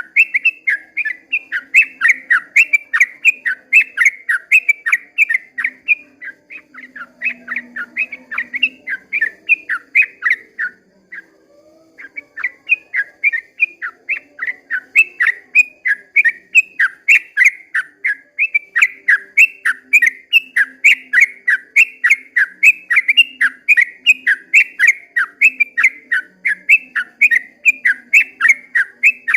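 Yellow-vented bulbul (trucukan) singing a long, rapid run of short bubbling whistled notes, about three a second, breaking off briefly about eleven seconds in before carrying on.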